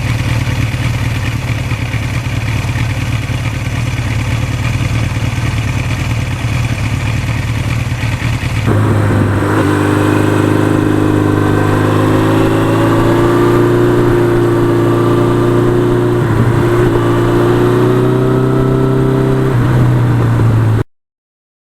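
1982 Suzuki GS1100E motorcycle engine running on the move. About nine seconds in the sound changes abruptly to a stronger, more tonal engine note that rises and falls gently with speed, and it cuts off sharply near the end.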